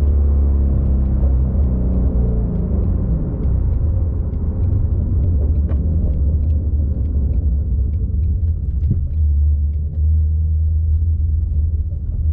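Shelby Mustang GT350R's 5.2-litre flat-plane-crank V8 heard from inside the cabin, its note falling as the revs drop in the first few seconds, then settling into a steady low rumble.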